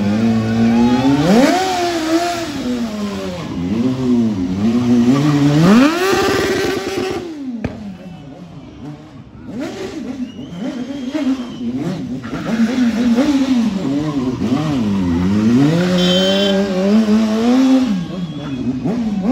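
BMW S1000R sport bike's inline-four engine revving hard and dropping back again and again during stunt and drift riding. About six seconds in it is held high, then cut off; it runs quieter for a couple of seconds before the revving picks up again.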